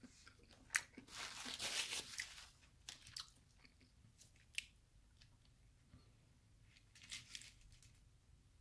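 Chewing of crisp fried food close to the mic: a dense crunch for about a second starting a second in, then a few sharp clicks and a shorter crunch near the end.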